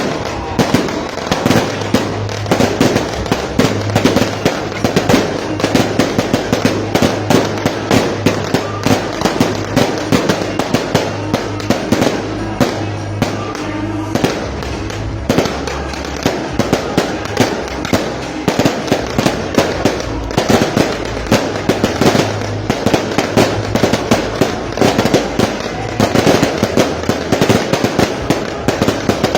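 A long run of firecrackers going off, several sharp bangs a second without a break, with music playing underneath.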